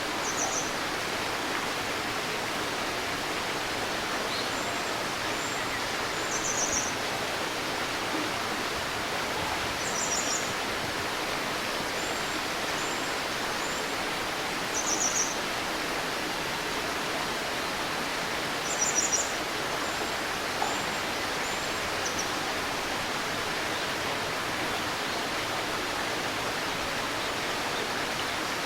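Shallow river babbling steadily over stones, with a small bird giving short, high-pitched chirps in clusters every few seconds, loudest around the middle.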